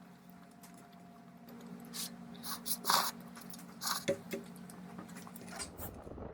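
A run of small clicks and short crunching sounds over a steady low hum, loudest about three seconds in. Just before the end it gives way to a low rumbling noise.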